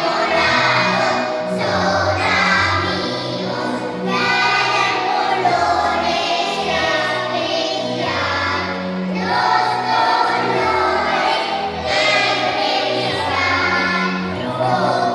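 A song with a choir of voices singing, which sounds like children, over an instrumental backing with a steady bass line.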